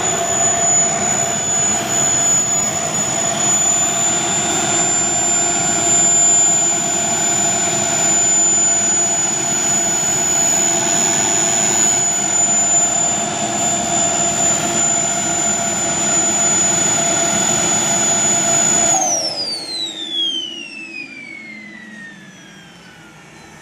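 Two JC Cheetah model jet turbines running steadily with a high whine. About 19 seconds in they wind down: the whine glides steadily lower in pitch as the sound fades.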